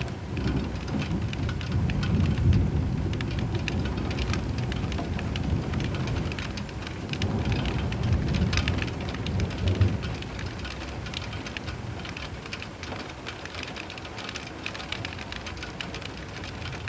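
Heavy rain pattering on a surface, with low thunder rumbling twice, early on and again about halfway through, then dying away while the rain goes on.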